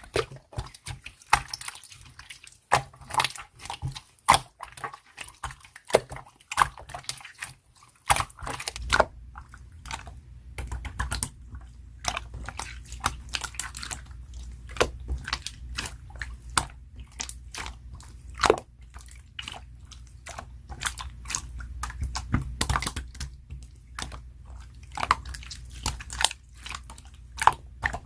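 Slime being pressed, poked and squished by hand, giving a dense run of small sticky clicks and crackles. About eight seconds in, a low steady hum joins underneath.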